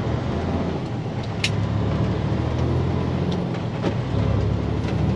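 Diesel engine of a semi-truck tractor running steadily, heard from inside the cab, with one sharp click about a second and a half in.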